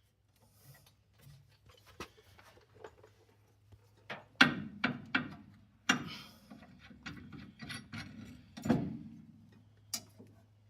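Irregular clicks and knocks of hand tools and metal parts being handled at the brake bracket, a few louder knocks about four and a half, six and nine seconds in, over a steady low hum.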